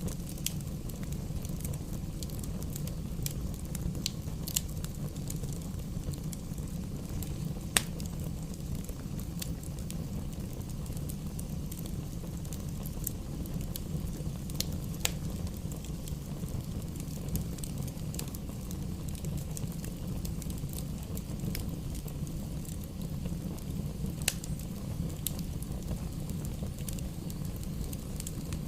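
Campfire burning: a steady low rumble of flames with frequent crackles and sharp pops of burning wood, a few of them louder, about eight and twenty-four seconds in.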